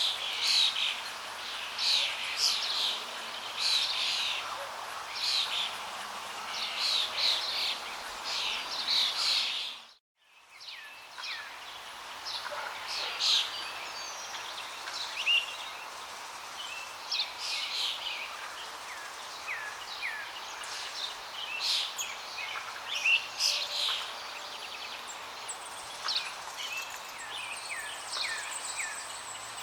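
Many songbirds chirping and trilling over a steady rush of flowing water. About a third of the way through the sound cuts out for a moment and then fades back in.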